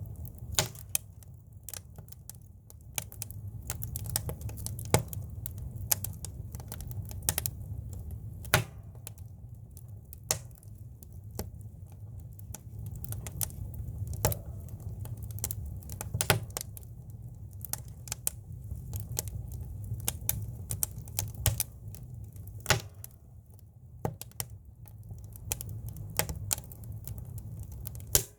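Campfire of firewood logs burning: irregular sharp crackles and pops, some louder snaps, over a steady low rumble.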